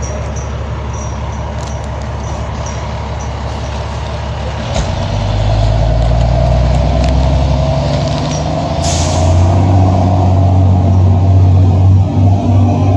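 Fire truck's engine running, then revving louder about five seconds in as the truck gets under way, with a sharp air-brake hiss about nine seconds in.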